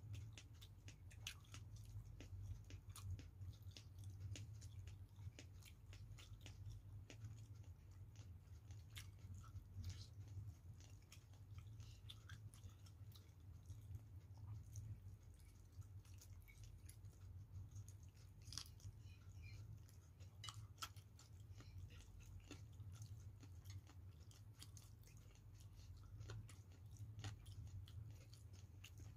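Faint close-up chewing of boiled chicken picked off the bone, with scattered small mouth clicks, over a low steady hum.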